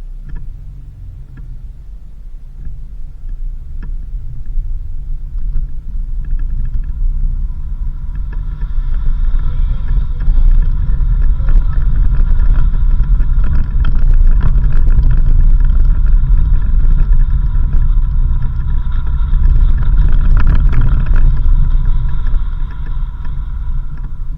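Off-road vehicle driving on a dirt road: a steady low rumble that grows louder about a third of the way in, when a steady high whine joins it.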